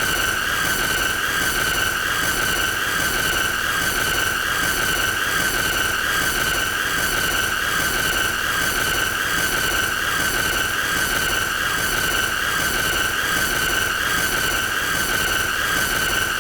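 A continuous, shrill, high-pitched squealing tone held at one pitch with a harsh hiss underneath, unchanging throughout: a deliberately annoying sound played on loop.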